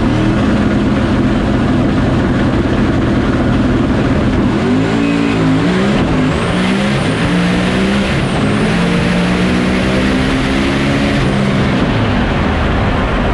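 High-horsepower race car engine running hard at high revs, its pitch wavering about five seconds in and dropping near the end, with a high whine over the middle stretch.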